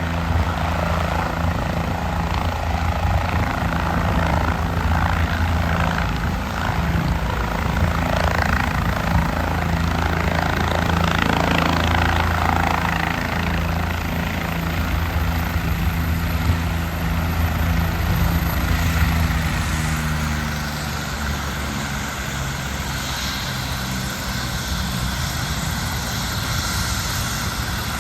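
Medical helicopter's rotor and turbine engine running. A thin high whine slides down and fades about two-thirds of the way through, and the sound runs a little quieter after that.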